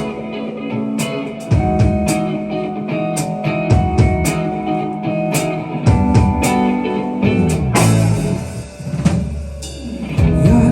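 Live band playing an instrumental passage: guitars and bass over a drum kit keeping a steady beat. A cymbal crash comes about eight seconds in, the sound thins out briefly, and the full band comes back in near the end.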